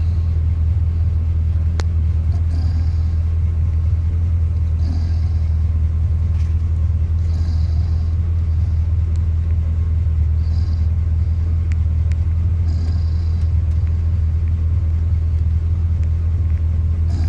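Chevrolet 350 (5.7-litre) V8 idling in drive while the vehicle stands still, a steady low rumble. The engine is running with its thermostat removed.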